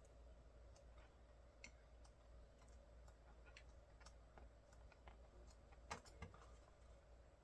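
Near silence with faint, scattered light clicks and ticks, a slightly louder pair about six seconds in: hands handling a thick photobook and its pages.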